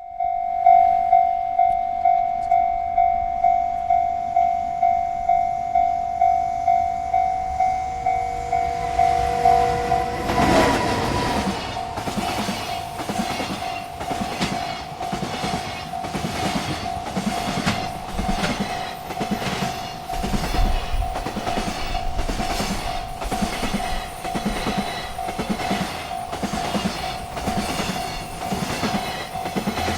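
Railroad crossing bell ringing in quick, even strokes about twice a second. About ten seconds in, a freight train arrives and passes, its wheels knocking rhythmically over the rail joints while the crossing bell keeps sounding.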